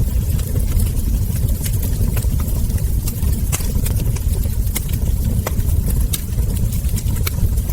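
Wood fire crackling, with sharp pops about two or three a second over a steady low rumble.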